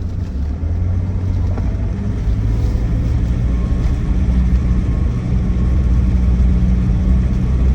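2008 Land Rover Defender 90's 2.4-litre TDCi four-cylinder turbodiesel running steadily under way, heard from inside the cab with road noise; the drone grows a little louder about two seconds in.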